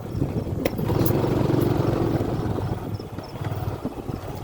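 A motor vehicle engine running as it passes close by, its hum swelling about a second in and then fading. A couple of sharp clicks come near the start.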